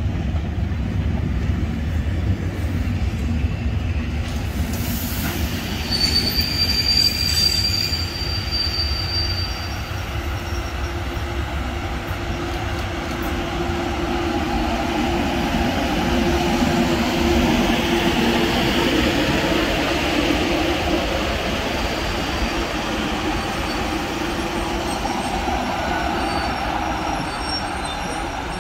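Vintage passenger coaches and an old electric railcar rolling past on the rails with a steady rumble of wheels on track. A thin, high wheel squeal rings out about six seconds in and lasts about three seconds.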